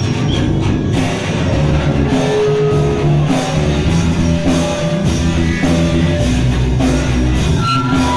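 A punk rock band playing live: distorted electric guitar, bass and drums, loud and continuous.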